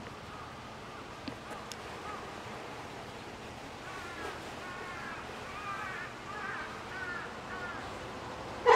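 Outdoor ambience with birds calling: a run of short, repeated arched calls from about four seconds in, then a sudden, much louder call right at the end.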